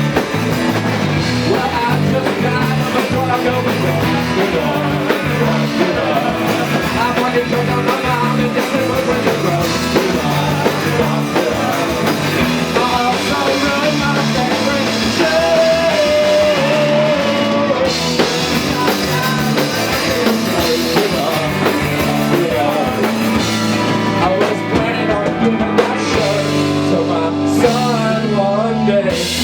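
Live rock band playing: electric guitars, bass guitar and drum kit in a steady driving groove, with a melodic lead line over it.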